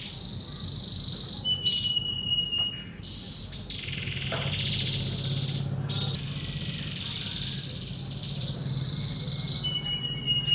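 Male domestic canary singing full song: long rapid rolling trills alternating with held, steady whistled notes.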